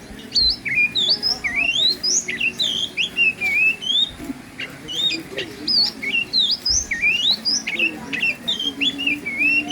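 Small birds chirping busily: a steady stream of short, quick rising and falling chirps, several a second.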